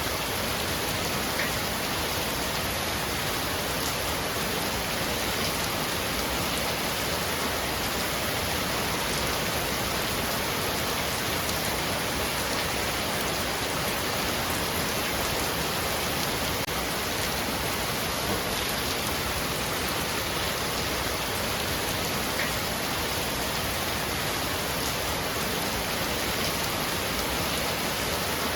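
Heavy rain falling steadily on a roof, an even hiss with a few faint drop ticks.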